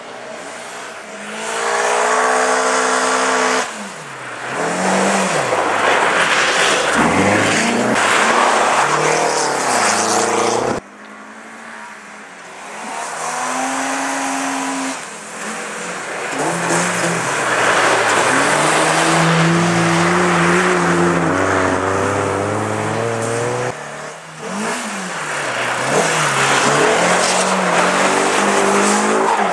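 Rally car engines revving up and easing off over and over, with stretches held at steady high revs, as the cars slide through snow on an ice circuit. The sound breaks off abruptly three times where the shots change.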